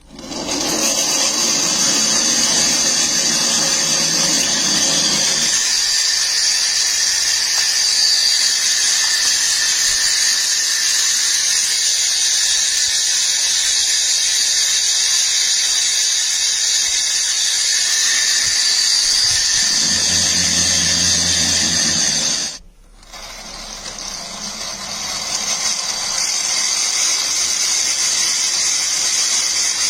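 Aircraft turbine engine running with a steady high-pitched whine, typical of a turboprop driving contra-rotating propellers. The sound cuts off abruptly about two-thirds of the way in, then comes back and swells.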